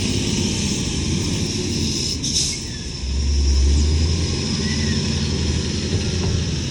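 Heavy diesel engine of earthmoving machinery running under load, its low rumble swelling about three seconds in. A short hiss of air comes a little after two seconds.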